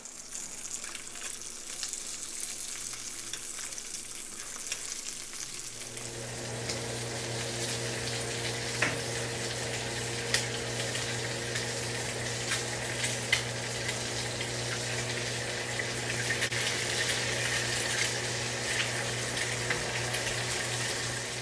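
Sausage links and eggs frying in a cast-iron skillet: a steady sizzle with many small crackling pops. A steady low hum comes in about six seconds in and holds under the sizzle.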